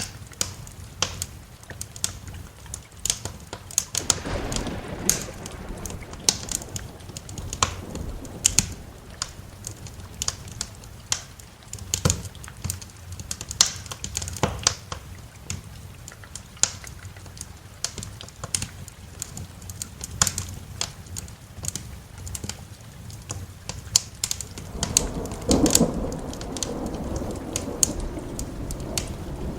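Wood fire crackling, with dense irregular sharp pops and snaps, over a soft hiss of rain. Low rumbles of thunder swell twice, about four seconds in and again near the end.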